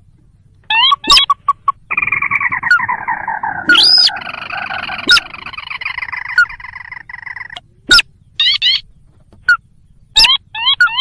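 Recorded calls of a sintar, the ruddy-breasted crake, played as a bird lure: quick rising chirps, then a long trilled call of about five seconds that drifts slightly down in pitch, with sharp clicks between the calls and more short rising chirps near the end.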